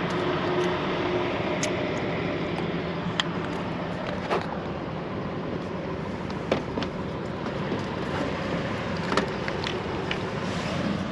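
A motor vehicle running, with a steady engine and road noise and a few sharp clicks and knocks scattered through it.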